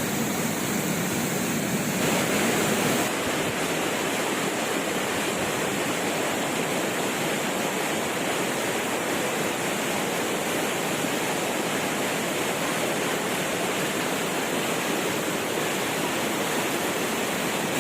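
Waterfall: falling water rushing steadily as an even, unbroken noise.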